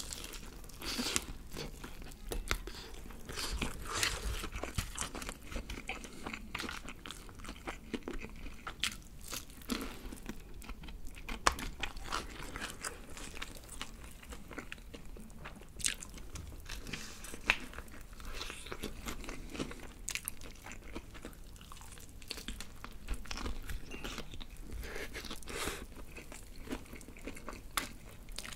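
BBQ Golden Olive fried chicken being bitten and chewed close to the microphone: irregular crunches of the crisp batter over chewing.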